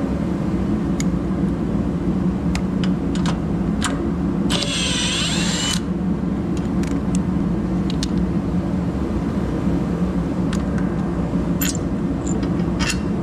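An engine running steadily, with scattered clicks and a brief high squeal about four and a half seconds in.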